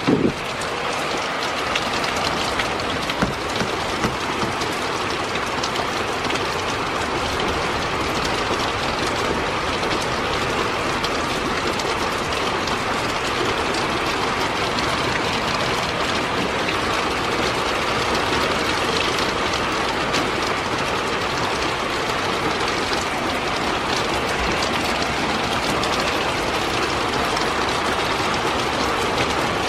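Heavy rain pouring down steadily in a thunderstorm downpour, as an even hiss with faint scattered ticks.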